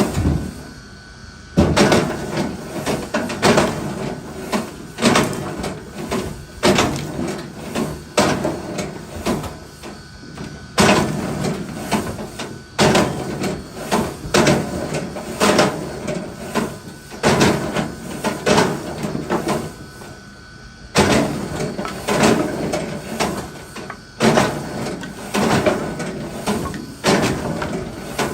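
Irregular series of wooden knocks and clattering impacts, several a second in places, with brief lulls near the start, about ten seconds in and about twenty seconds in.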